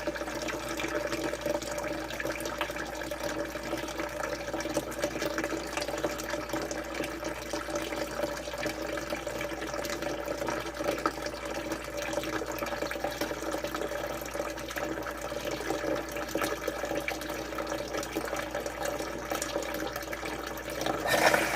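Water running from a drain pipe into a basement sump pit, a steady splashing over a low hum. About 21 seconds in, the electric sump pump kicks on and the sound gets louder.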